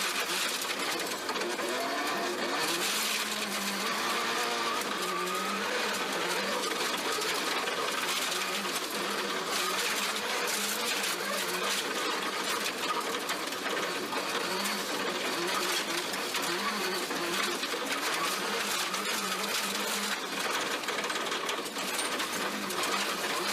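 Subaru Impreza GC8 rally car's turbocharged flat-four engine running hard, heard from inside the cabin, its pitch rising and falling continuously as the revs change.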